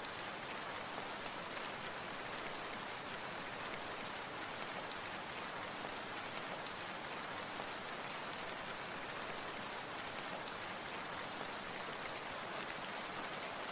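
Steady hiss of falling water, rain-like, even and unchanging in level.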